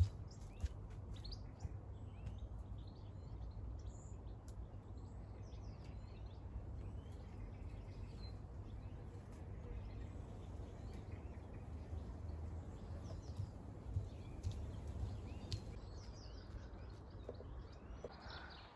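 Small birds chirping and twittering on and off over a steady low rumble of outdoor background noise, with a few faint clicks.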